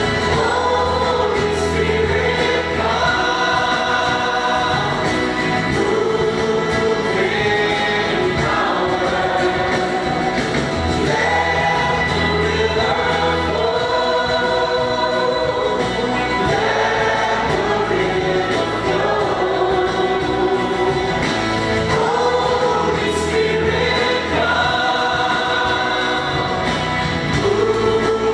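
Church worship music: a group of voices singing a gospel song in phrases over steady accompaniment with a bass line.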